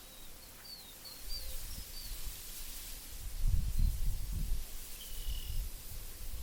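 Wind in a meadow gusting. Low rumbling puffs begin about a second in and are strongest around the middle, over a faint steady hiss. A small bird gives a few short high chirps in the first two seconds and one more call later on.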